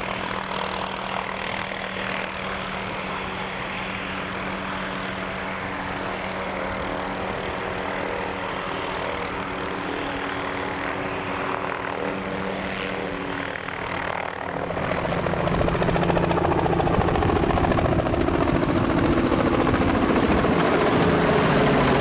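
A helicopter's engine and rotor running with a steady hum. About fourteen seconds in the sound suddenly gets louder and fuller.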